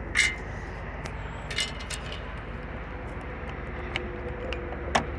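Scattered light clicks and knocks, like handling of controls or keys, over a low steady hum; the loader's engine is not yet running.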